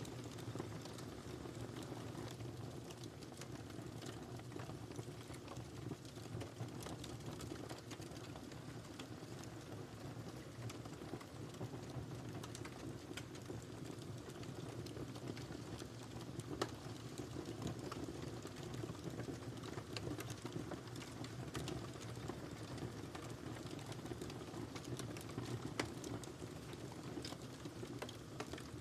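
Wood fire burning in a fireplace: a steady low rush of flames with frequent small crackles and pops, a couple of sharper pops standing out about 16 and 26 seconds in.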